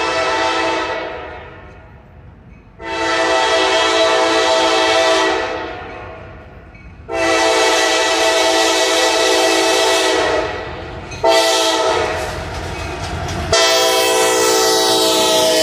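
Horn of a CSX SD70AC diesel locomotive sounding the grade-crossing signal: two long blasts, a short one, then a long one held on. A steady multi-note chord, with the train's low rumble between blasts.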